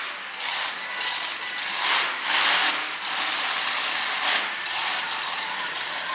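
A monster truck's engine running loud, surging several times, hardest about two to three seconds in and again around four and a half seconds.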